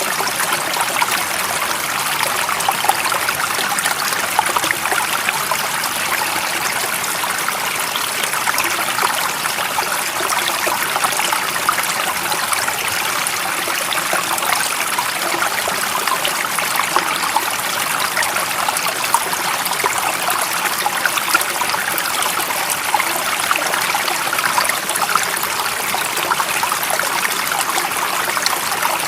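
Steady running water of a stream, an even rush that holds level throughout.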